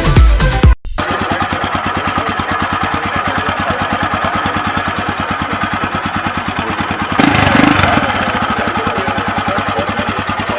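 Electronic music cuts off just under a second in, giving way to a Royal Enfield Himalayan's 411 cc single-cylinder engine idling with an even exhaust beat. About two-thirds of the way through, the throttle is blipped once: the engine rises in pitch and gets louder, then settles back to idle.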